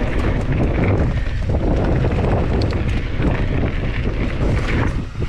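Wind buffeting the microphone of a camera on a moving mountain bike, a steady low rumble with a few light clicks scattered through it.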